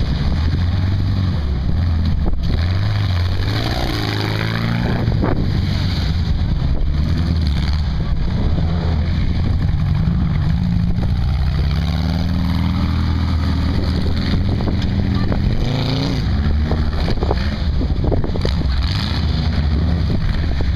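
Engines of a Baja Bug, an off-road VW Beetle with an air-cooled flat-four, and a sandrail revving as they climb and drop over dirt jumps, pitch rising and falling again and again. The Baja Bug's engine is loudest as it passes close, about halfway through.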